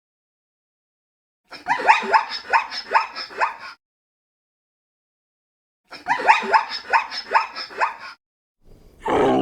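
An animal giving rapid runs of short, yelping calls, about four or five a second, in three bursts of roughly two seconds each separated by silence. A different, louder call starts at the very end.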